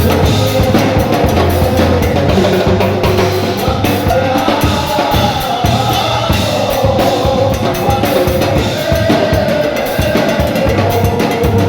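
A band playing music with a drum kit and steady bass notes under a melody.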